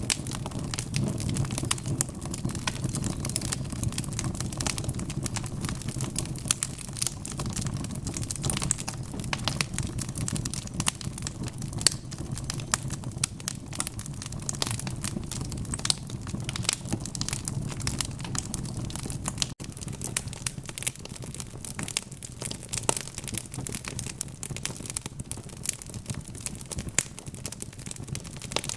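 Wood fire burning in a fireplace: logs crackling and popping in a dense, irregular stream of sharp snaps over a steady low rumble of flame.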